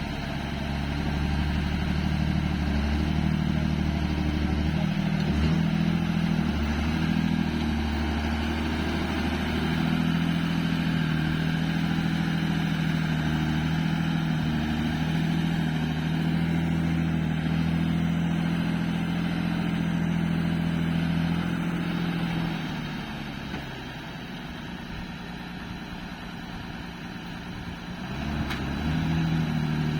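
Truck engine running steadily, its pitch holding, with the sound growing quieter for several seconds toward the end before coming back up.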